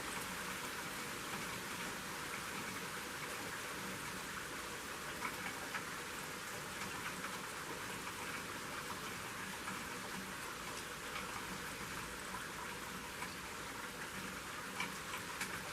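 Steady rain falling, with a few scattered drops ticking more sharply now and then.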